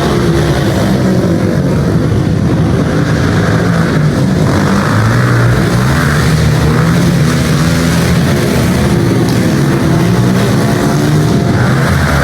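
Pit bike engines revving hard and easing off again and again, their pitch rising and falling as the bikes race.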